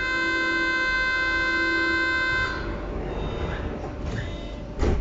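Departure signal of a Berlin U-Bahn H-series train: a steady electronic warning tone that sounds for about two and a half seconds, then stops. A loud thump comes near the end.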